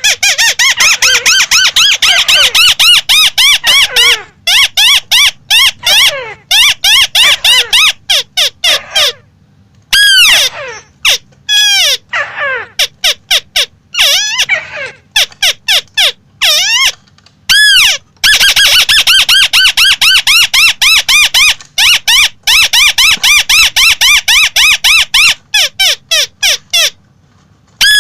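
Crake calls: rapid runs of loud, harsh notes that sweep down in pitch, repeated many times a second, broken by short pauses.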